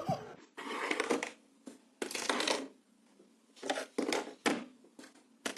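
A series of irregular crunching or rustling noises, about eight short bursts with gaps between them.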